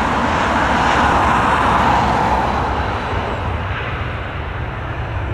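Jet airliner engine noise as the aircraft passes, swelling to a peak about two seconds in and then fading, over a steady low rumble.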